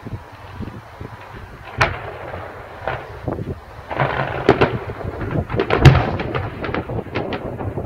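Fireworks display: a string of sharp bangs and crackles, thickening into a dense barrage about four seconds in, with the loudest bang near six seconds.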